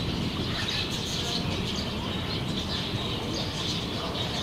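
Small birds chirping repeatedly over a steady low outdoor background noise.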